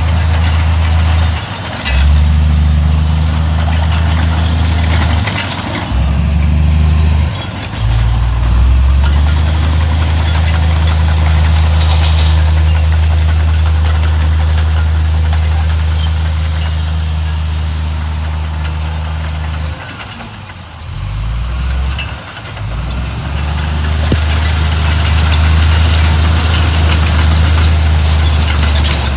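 Heavy diesel engine of earthmoving machinery running loud and steady under load, its low note dropping away briefly several times and then coming back.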